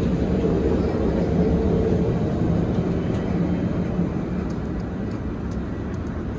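Steady rumble of engine and airflow noise inside an Airbus A380's cabin, slowly getting quieter.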